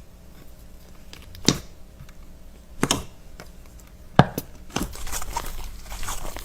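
A blade cutting through a block of soap: four sharp cracks at intervals of about a second and a half, then a run of fine, crumbly scraping and crackling from about five seconds in.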